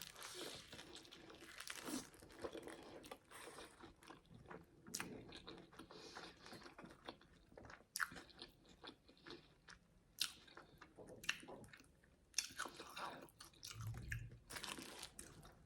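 Close-up chewing and crunching of a crispy fried chicken burger: soft, wet mouth sounds broken by many short crackles of the crunchy coating, a few of them sharper.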